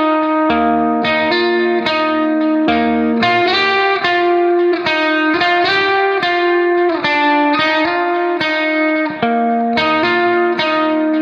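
Background music: a plucked guitar playing a steady melody of notes.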